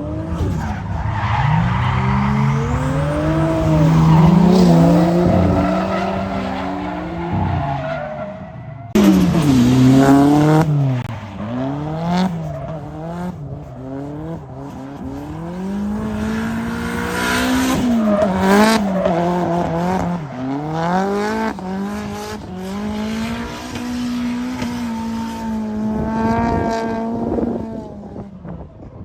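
Drift cars on track: engines revving up and down over and over through the drifts while the tires squeal.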